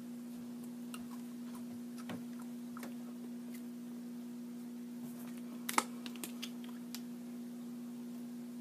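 Person chewing a whole cricket: faint scattered crunches and mouth clicks, with one sharper click a little after halfway, over a steady low hum.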